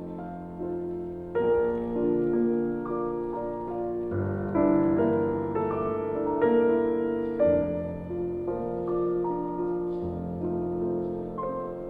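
Background piano music: slow, gentle chords and notes.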